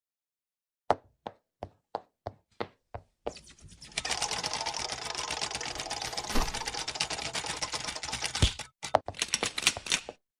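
A run of sharp mechanical clicks, about three a second, then a dense rapid clatter of clicks lasting about five seconds, which stops abruptly and is followed by a few more single clicks.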